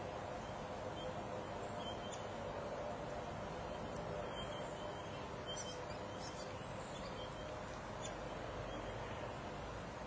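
A few faint, short bird chirps scattered over a steady background hiss.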